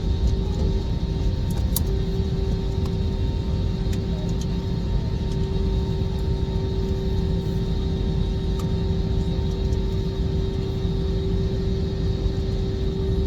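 Jet airliner engine noise: a steady rumble with a constant hum over it, unchanging in pitch or loudness.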